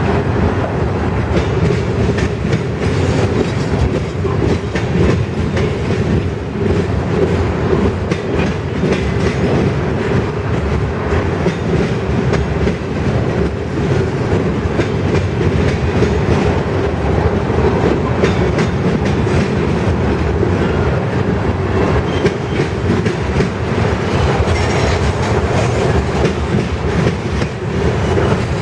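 Freight train cars rolling past, with a steady rumble and a continuous clatter of wheels over the rails.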